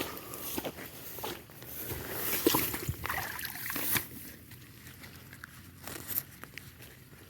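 Water sloshing and trickling as an eel trap is handled in floodwater, with irregular knocks and splashes that are busiest in the first four seconds and then die down.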